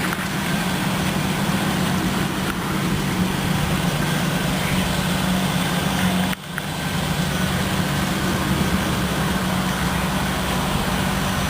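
2003 Ford Ranger's 4.0 litre V6 engine idling steadily, with a brief dip in the sound about six seconds in.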